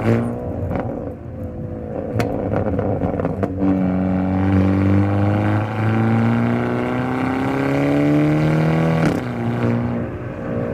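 Hyundai Elantra N's turbocharged 2.0-litre four-cylinder engine and exhaust under acceleration. It pulls up steadily in pitch through one gear from about four seconds in, then an upshift about nine seconds in brings a short crack and a sudden drop in revs. There are a few short cracks in the first few seconds.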